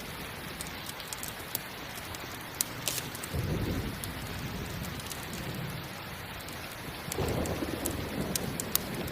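Steady rain with two low rolls of thunder, one about a third of the way in and one near the end, and scattered sharp crackles from a campfire.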